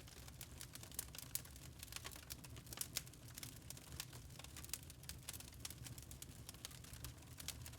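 Wood log fire crackling: many small, irregular pops and snaps over a low, steady rumble of burning.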